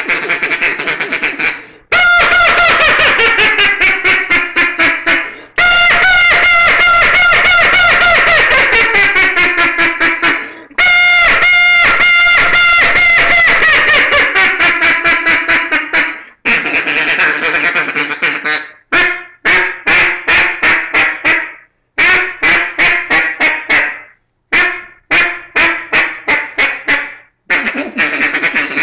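Real Calls Original acrylic single-reed duck call blown in mallard-hen quacks: three long runs of rapid quacks falling in pitch, then shorter bursts of quacks with brief pauses between them.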